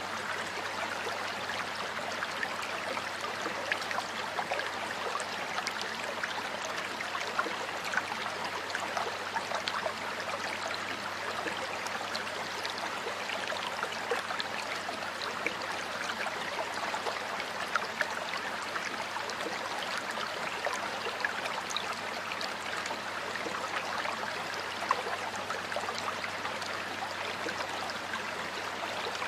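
Stream water flowing steadily over stones, an even rush with many small splashes and droplet ticks throughout.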